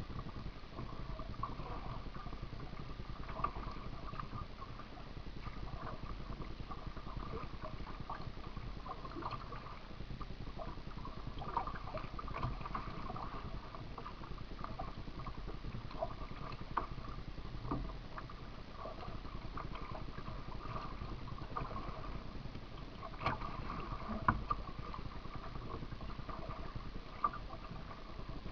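A kayak being paddled: a steady wash of water with scattered small splashes and knocks.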